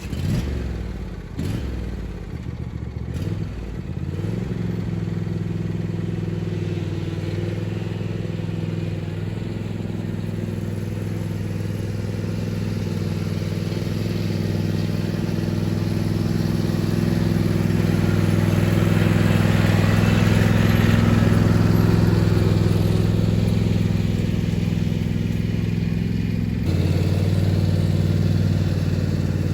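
A small tractor's engine running steadily while it moves a log splitter, settling into an even run over the first few seconds, swelling louder through the middle and dropping back a step near the end.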